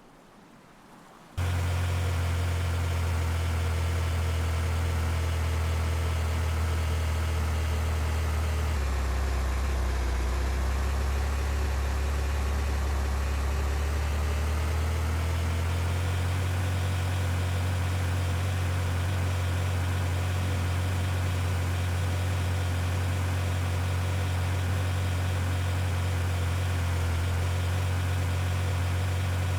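Vehicle engine running with a steady, loud hum that cuts in suddenly about a second in. Its pitch sags for a few seconds midway, then settles back.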